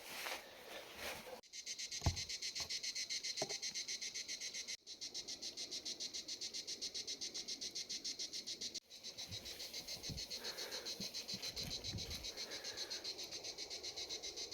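Crickets chirping in a steady, fast pulse of several chirps a second, with a few faint low knocks underneath.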